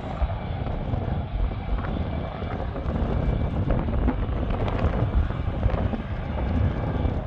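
F-22 Raptor's twin jet engines running with a steady rumble and a faint whine, with wind buffeting the microphone.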